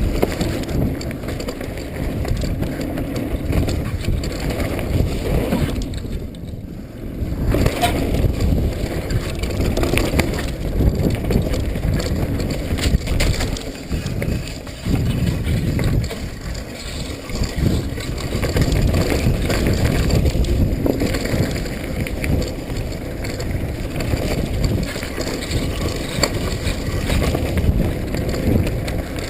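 Mountain bike riding a trail, with the bike rattling and knocking over the ground and wind rushing on the microphone. It drops briefly quieter about six seconds in.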